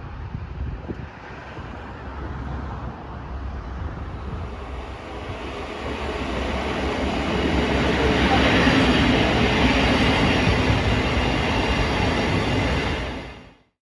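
Steady low running noise of a large vehicle, growing louder over several seconds, then cutting off abruptly near the end.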